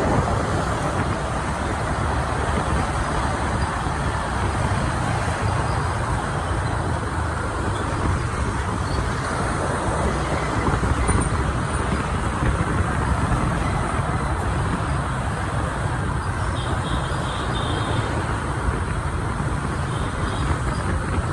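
Steady noise of motorbike engines and traffic, heard while riding a motorbike through city streets, with a rush of wind over the microphone heaviest in the low end.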